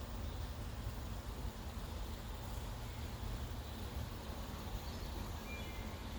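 Outdoor ambience: a steady low rumble on the microphone, with a few faint bird chirps near the end.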